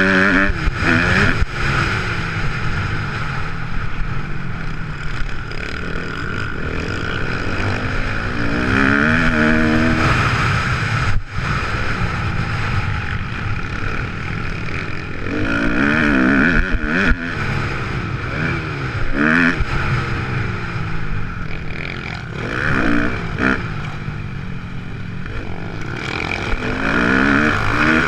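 Kawasaki KX250F motocross bike's four-stroke single-cylinder engine revving hard and backing off again and again, pitch sweeping up with each throttle burst.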